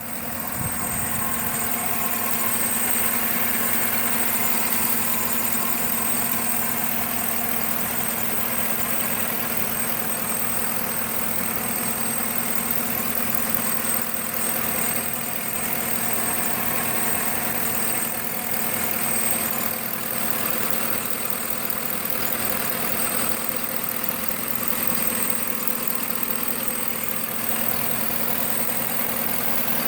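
Chevrolet 5.3 L V8 engine idling steadily, with a steady high-pitched hiss over it that the owner wonders is a vacuum leak.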